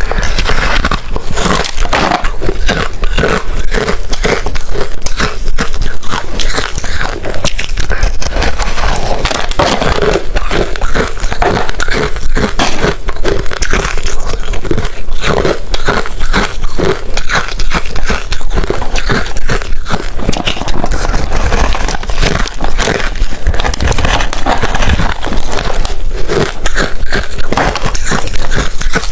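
Close-miked, continuous loud crunching of hard ice being bitten and chewed, dense sharp cracks with no pause.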